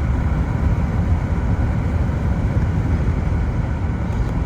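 Car driving: a steady low rumble of engine and road noise heard from inside the cabin.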